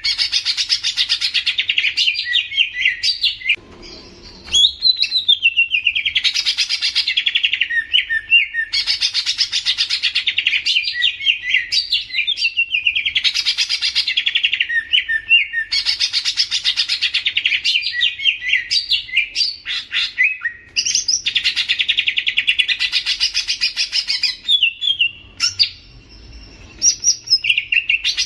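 Cucak ijo (green leafbird) singing: phrases of fast, dense trilling about two to three seconds long, repeated roughly every four seconds, with short sliding whistled notes between them.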